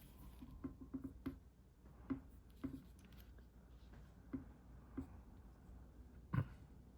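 Faint, short, scattered strokes of a drawing tool on paper, about ten in all, with one louder knock about six seconds in.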